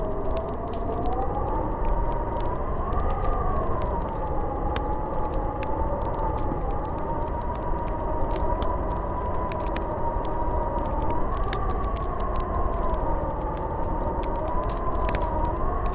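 Snowstorm wind howling: a whistling tone that slowly wavers up and down over a steady low rush of wind, with scattered faint ticks.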